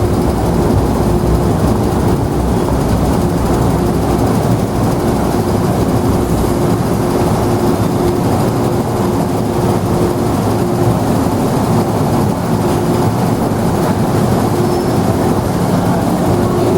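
MTR M-Train electric multiple unit running at the platform: a steady rail rumble with a constant, on-and-off electrical hum over it.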